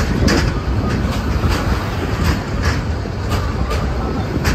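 Passenger train running, heard from on board: a loud low rumble with irregular clacks of the wheels over the rail joints.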